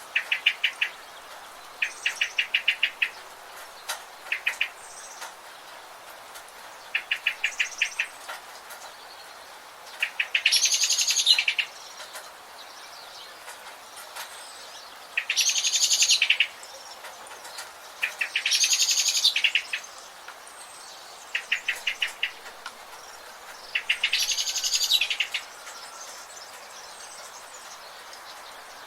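Forest birds calling. Short rapid trills of about ten quick notes alternate with four longer, denser calls that reach higher in pitch, over a steady background hiss.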